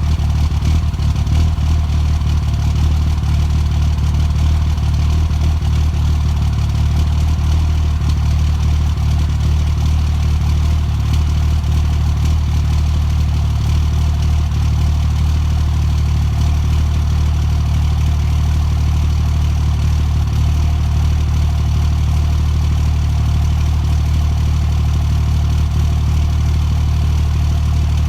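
Car engine idling after a cold start, with the cold-start misfire that it is filmed for.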